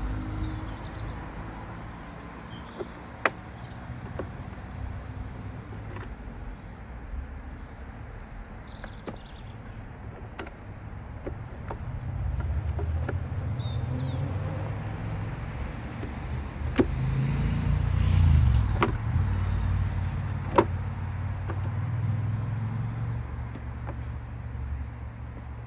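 Low rumble of a vehicle that swells twice, most strongly about two thirds of the way in, with a handful of sharp knocks and a few faint bird chirps.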